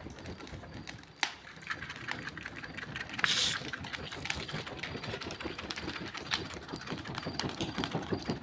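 Rapid, even flapping of a tin lid fanning a charcoal stove, with a sharp click about a second in and a short hiss about three seconds in.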